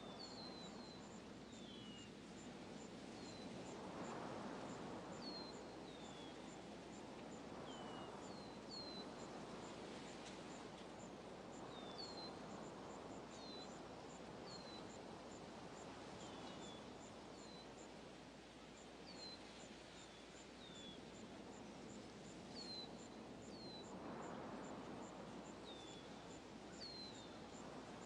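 Faint outdoor nature ambience: small birds giving short, falling chirps at irregular intervals about once a second, over an even, rapid, high-pitched insect ticking and a soft hiss that swells now and then.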